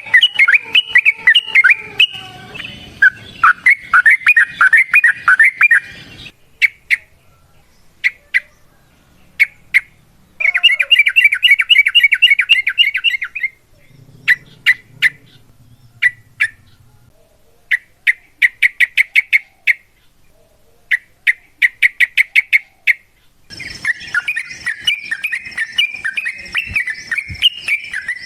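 Yellow-vented bulbul (trucukan) singing loudly. Dense chattering phrases alternate with scattered single notes and fast even trills of repeated notes, the longest lasting about three seconds, about ten seconds in.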